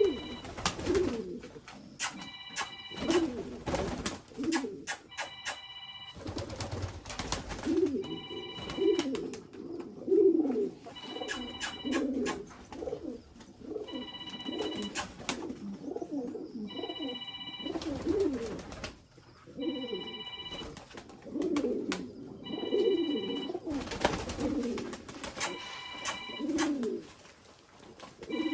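Domestic pigeons cooing repeatedly, one call after another. A short high ringing tone repeats about every two seconds over the cooing.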